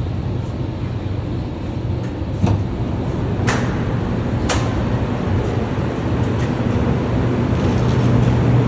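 Low steady rumble of a moving passenger vehicle heard from inside, with three sharp clicks about a second apart near the middle.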